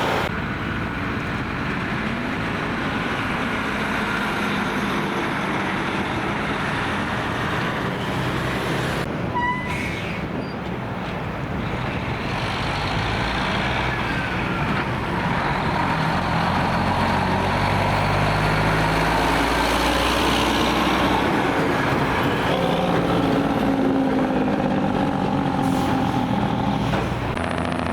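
Heavy trucks passing over steady road and traffic noise. A diesel engine note builds and grows louder through the second half, then fades just before the end.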